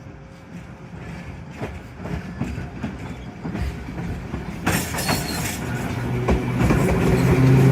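Randen tram approaching and getting steadily louder, its wheels clicking over the rail joints, with a low steady hum growing in the last couple of seconds.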